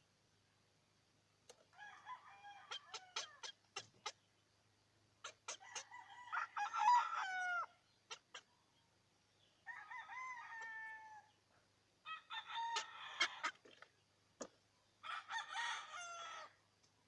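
Chickens calling in five separate bouts of pitched, bending calls lasting a second or two each, with sharp clicks between them.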